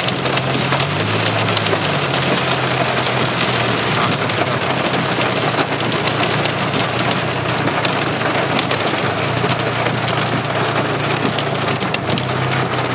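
Heavy rain drumming on a car's roof and windshield, heard from inside the cabin as a dense, loud patter full of sharp hits. Under it, the car's engine hums low and steady.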